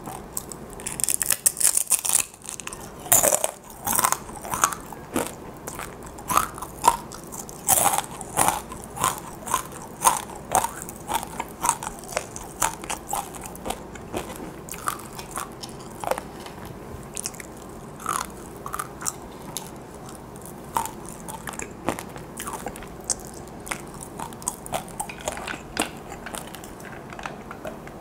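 Close-miked crunching and chewing of a crisp fried dried chili pepper chip (gochu-twigak). The crisp crunches come thick and fast at first, then thin out into slower chewing.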